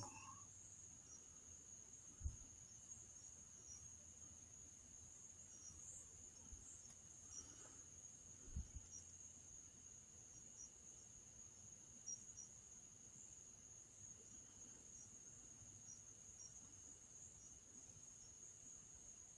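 Faint, steady high-pitched trill of crickets, with a couple of soft low thumps about two and eight and a half seconds in.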